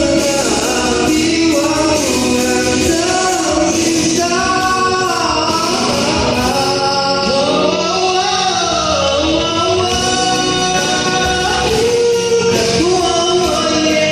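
A vocal group singing a song in harmony, several voices holding chords beneath a moving lead melody.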